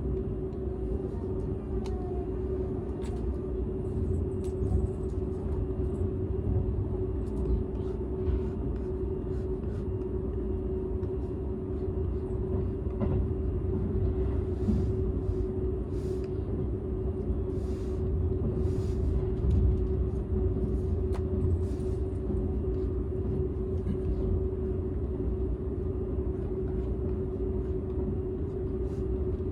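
Cabin noise inside a Seibu 001 series Laview limited express train running at speed, heard from the quiet unpowered driving-trailer (Tc) car. A steady low rumble carries a constant hum, with faint scattered ticks and clicks.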